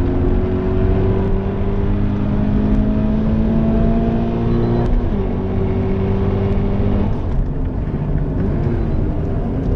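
Stock Toyota GT86's 2.0-litre FA20 flat-four engine, heard from inside the cabin, pulling hard with the revs climbing, dropping at an upshift about five seconds in and climbing again. About seven seconds in the engine note falls away as the driver lifts off, leaving tyre and road noise.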